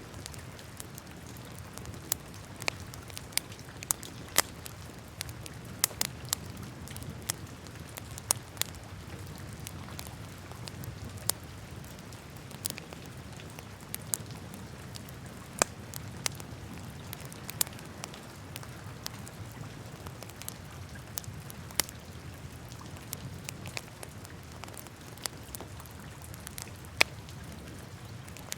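Wood fire burning in a fireplace, crackling with irregular sharp pops, several close together at times, over a steady low noise of the flames.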